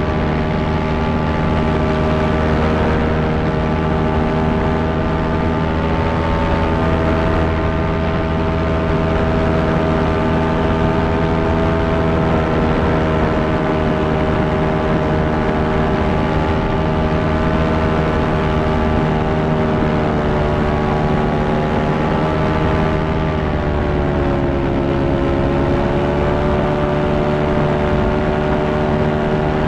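Electric fan motor and blades running steadily with a constant hum and whine. The pitch sags briefly about two thirds of the way through, then recovers.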